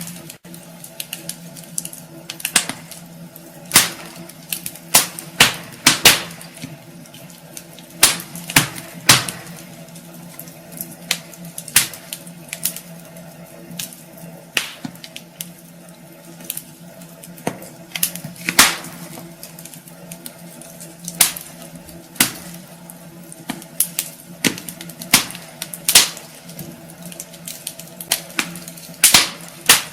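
Wood fire burning in a fireplace: logs crackling and popping in irregular sharp snaps, some loud, over a steady low hum.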